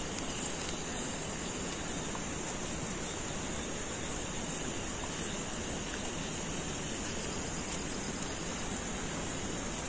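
Steady, even background hiss with a faint high-pitched steady tone above it, and no distinct events.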